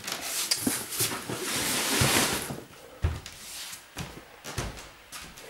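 Handling noises as things are moved about: a rustling scrape lasting about a second and a half, then a few separate knocks.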